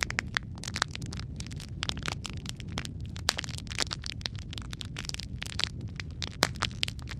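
Wood fire crackling and popping in a fireplace: many irregular sharp pops, a few louder snaps, over a steady low rumble.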